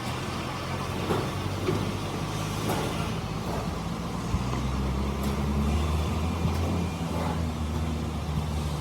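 Truck diesel engine idling steadily, with a few light knocks.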